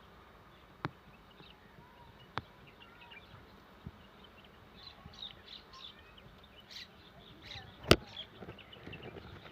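Quiet outdoor ambience with scattered bird chirps, broken by four sharp knocks at irregular intervals; the one near the end is much the loudest.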